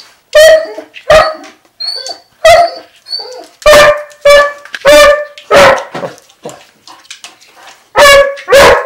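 Basset hound barking over and over, short loud barks coming roughly every half second to second, with a break of a second or two past the middle before the barking starts again near the end.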